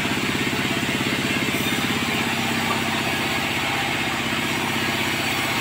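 Sawmill engine running steadily at an even speed, with a rapid, regular pulse.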